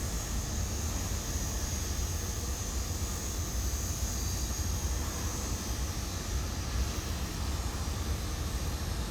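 Steady low rumble with a hiss, unbroken and without speech.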